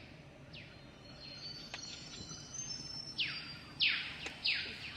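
Forest birds calling: a series of harsh calls, each sweeping sharply downward, loudest around four seconds in, mixed with thinner high whistled notes.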